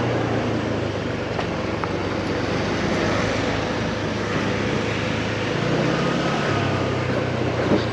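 Belt-driven motorbike riding at road speed: a steady low engine hum under wind and road noise.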